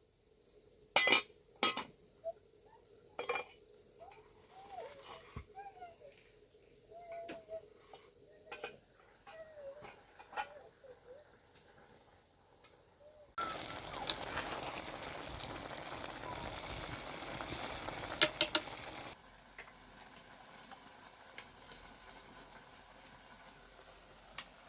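Crickets chirring steadily in the background. There are a few sharp knocks in the first few seconds, then a hissing noise for about six seconds in the middle.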